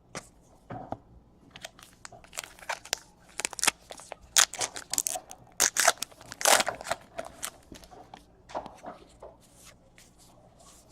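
Baseball card packs and cards being handled: a string of quick crinkling, crunching and tearing sounds of wrappers and cards, busiest in the middle.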